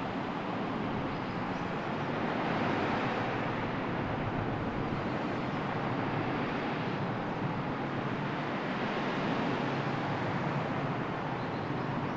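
Steady wash of sea surf with a gentle swell in loudness a few seconds in.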